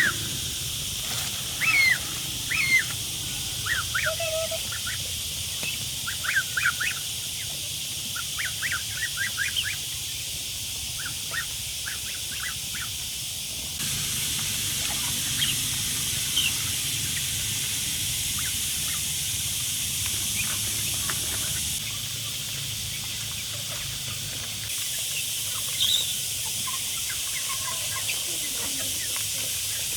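Chickens calling in short chirps and clucks, many in the first ten seconds and only a few after, over a steady high-pitched hiss.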